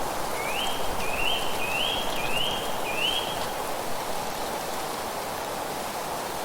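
A bird calls five times in quick succession, each note a short whistle that rises and then holds, over a steady rushing of wind through leaves.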